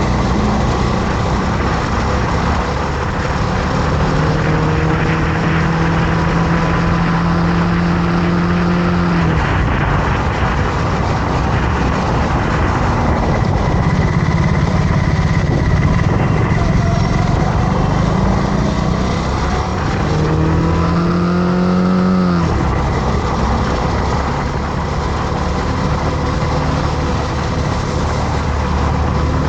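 Motorcycle engine running under way beneath heavy wind and road noise; its note holds steady for several seconds, drops off, and about twenty seconds in rises and falls again as the speed changes.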